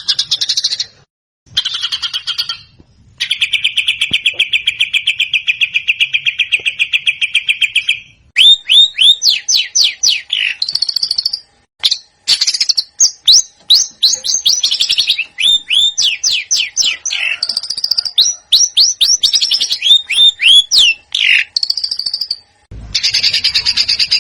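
Recorded songbird song of the kind used as a masteran tutor track: short buzzy phrases, then a fast, even trill lasting about five seconds, then runs of quick, sharply falling whistled notes in bursts broken by brief silent gaps.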